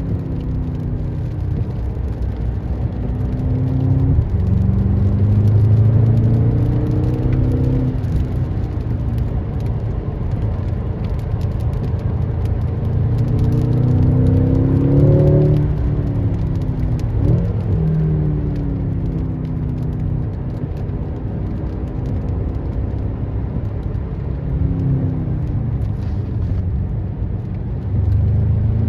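BMW M6 Competition's twin-turbo V8 under way on track, its revs climbing and then dropping sharply several times as it accelerates and shifts gears, with longer falling stretches as it slows.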